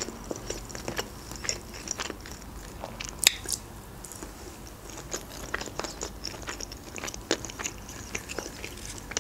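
A person chewing food close to the microphone: a run of small mouth clicks and smacks, with a sharper click about three seconds in.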